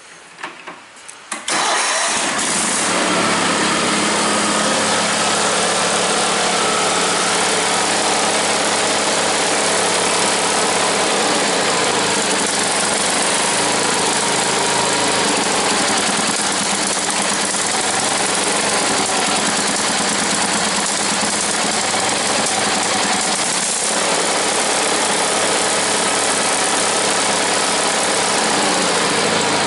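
A GT18 garden tractor's engine cold-starting: it catches about a second and a half in and then runs steadily.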